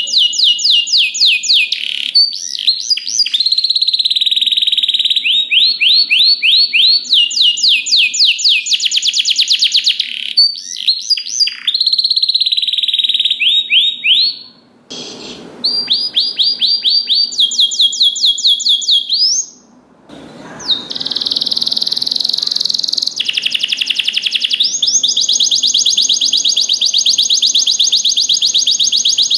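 Domestic canary singing a long, fast, high-pitched song of rapid trills, rolls and buzzy held notes, pausing briefly about 15 and 20 seconds in.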